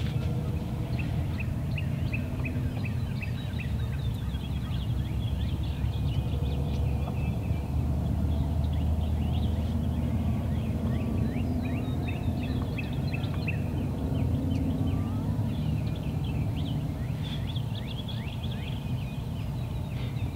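Wild turkeys gobbling over and over, many quick calls in a row, over a steady low rumble.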